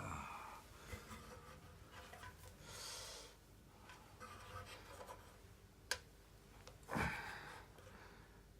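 Quiet hand-work noises: faint rubbing and scraping, a sharp click about six seconds in, then a short louder rush of noise about a second later that fades away.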